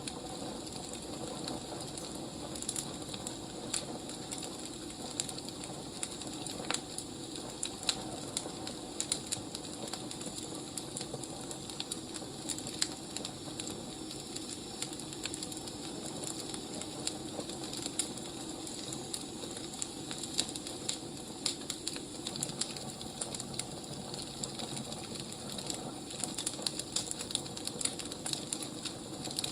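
Burning firewood crackling: frequent small, irregular pops and snaps over a steady hiss.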